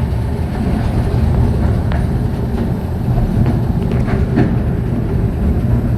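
Mail Rail's small electric passenger train running through its tunnel: a steady low rumble of wheels on track, with a few light clicks.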